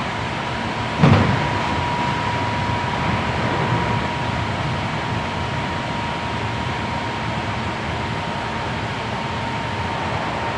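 Inside a Hankyu 7300 series commuter train with SCR field-chopper control, running along the line: a steady rumble of wheels on rail with a thin steady whine. About a second in there is one sharp thump, then the rumble runs on evenly.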